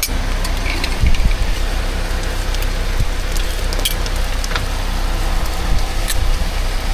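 Food sizzling on a hot griddle, with scattered small crackles over a steady low rumble of street noise.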